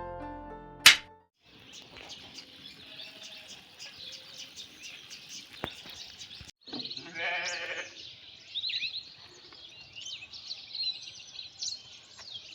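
Birds chirping in a farmyard, with one wavering bleat from a farm animal about seven seconds in. Piano music ends with a sharp click in the first second.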